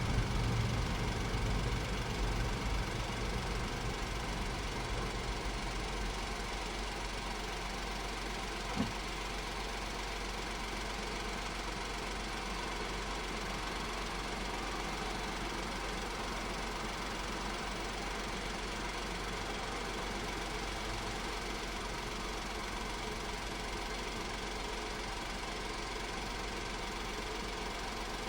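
Honda S660's small turbocharged three-cylinder engine idling steadily; its low rumble is louder at first and settles over the first few seconds. A single sharp click sounds about nine seconds in.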